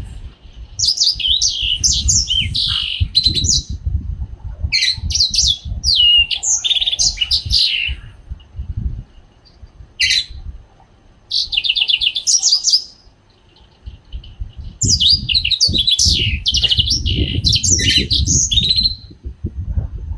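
A young yellow-fronted canary singing: four bouts of rapid, twittering warble, each two to four seconds long, with short pauses between them. A low rumble runs underneath.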